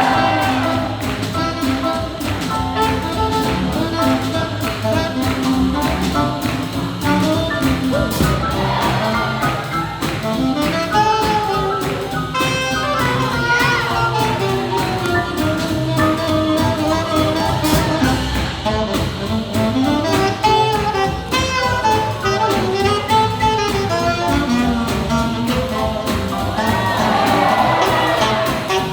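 Live swing jazz from a big band: horns play melody lines over a steady swinging beat from the rhythm section.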